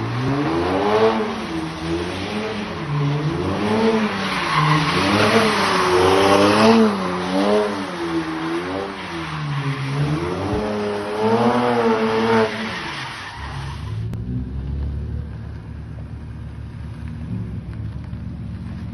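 BMW 335i E92's N54 twin-turbo straight-six, stage 2 tuned, revving up and down in repeated waves while the rear tyres squeal in a slide. About 13 seconds in the revs fall away and the tyre squeal stops, leaving a low, steady engine rumble.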